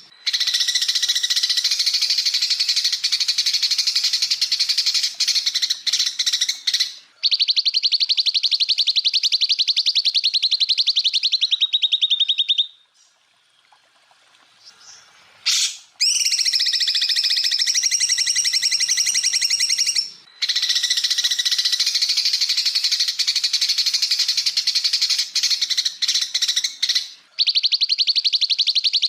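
Cucak ijo (greater green leafbird) song recording: long runs of very fast, rattling trills of repeated notes, the rapid "tembakan" phrases, broken by brief gaps and a pause of about three seconds in the middle.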